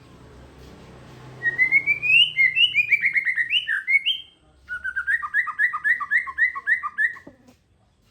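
A songbird singing two runs of quick, loud chirping notes. The first starts about a second and a half in and climbs, then falls in pitch. After a short break, a second run of evenly repeated downward chirps ends about seven seconds in.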